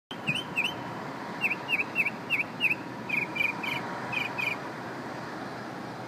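A bird singing a series of short clear chirps, each note type repeated several times before it switches: two, then five, then a run of doubled notes. The song stops about four and a half seconds in, over steady street noise.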